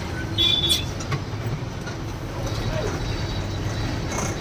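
Lorry engine running steadily while driving in heavy traffic, with a brief vehicle horn toot about half a second in.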